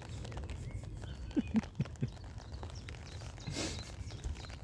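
A man laughing softly: a few short, falling "ha" notes about a second and a half in, followed by a brief breathy rush a little later.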